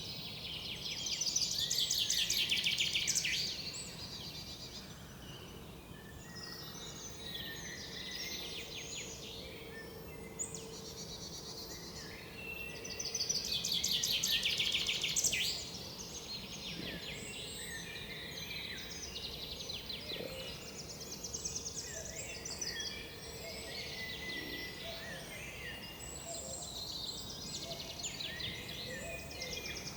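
Woodland songbirds calling and singing all around, with a loud, fast trilled song twice: about a second in and again about halfway through.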